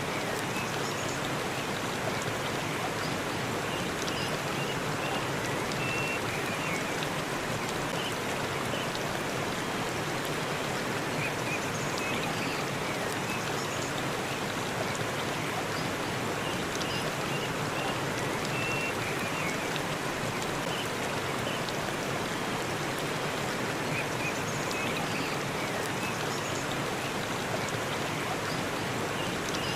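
Waterfall pouring steadily, an even rush of falling water, with faint short high chirps here and there.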